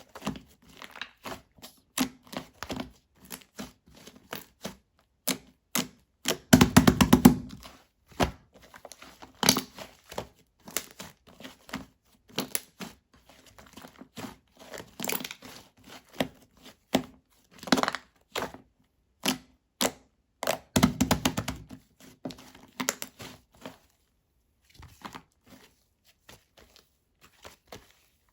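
Green shaving-foam slime being squeezed and poked by hand, giving many sharp clicking pops and crackles. Two longer squelching runs come about seven and twenty-one seconds in, and the sounds thin out and get quieter near the end.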